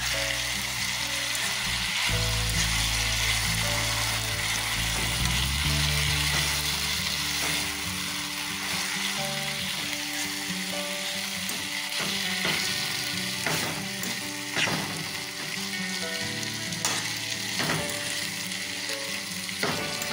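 Salt mackerel with onions and sweet peppers sizzling in a frying pan as it is stirred, with a few sharp knocks of the utensil against the pan in the second half. Background music plays underneath.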